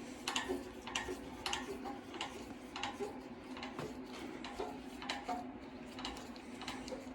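Engine stand being turned to rotate a bare Dodge 4.7 V8 engine: a run of light clicks, one or two a second and not quite evenly spaced, over a steady low hum.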